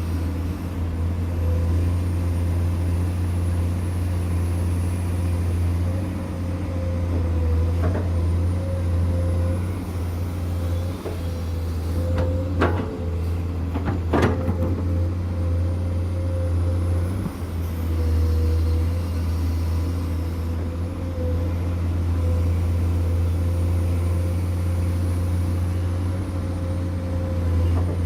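Heavy diesel machinery engine running steadily with a low drone, broken by a few sharp clanks; the loudest two come about a second and a half apart midway.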